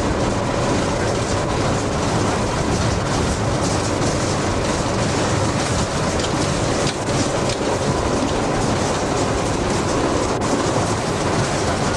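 Train locomotive running along the line, heard from inside its cab: a steady, loud mix of running noise and wheels on the rails, with no break or single event standing out.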